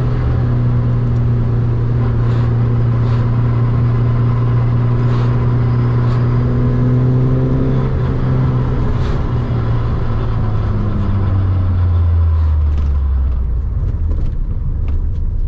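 Renault 8's pushrod four-cylinder engine running at steady revs under load on the dyno, creeping up slightly. About ten seconds in it drops back in two steps, and it dies away near the end, leaving a low rumble.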